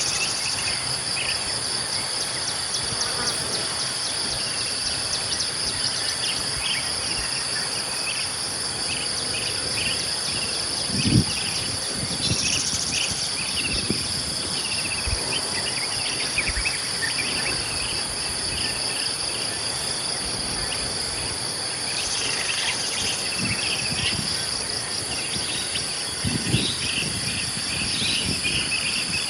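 Steady insect chorus with a continuous high-pitched shrill, scattered short bird chirps over it, and two brief low thumps, one about a third of the way in and one near the end.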